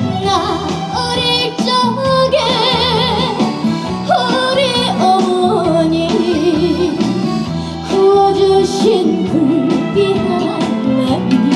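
Trot song performed live: a female voice singing with wide vibrato, over a band backing.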